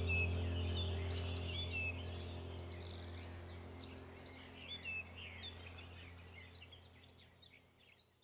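Many small birds chirping and twittering over a low steady drone, the whole fading out gradually to near silence.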